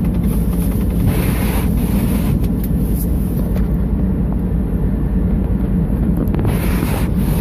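GMC Envoy's engine running with the defroster fan blowing, a steady low rumble heard from inside the cabin.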